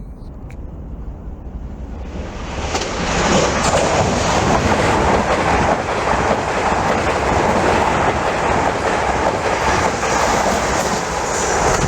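A train passing along the track close by, its noise building over the first few seconds and then staying loud and steady.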